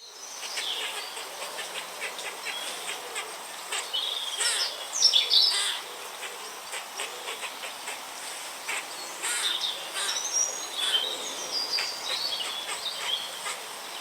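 Outdoor recording of several birds chirping and calling over a steady background hiss, cutting in abruptly. A burst of louder, quick rising and falling calls comes about five seconds in.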